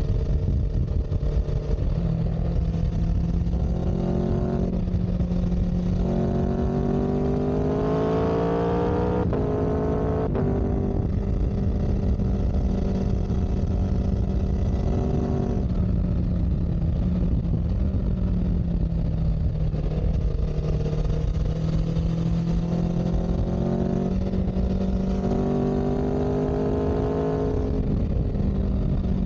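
Vehicle engine under way, climbing in pitch twice as it accelerates and dropping back each time, as at gear changes, over a constant low rumble.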